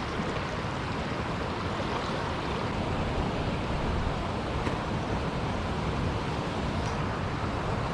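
Steady rushing noise of water flowing out below a lake spillway.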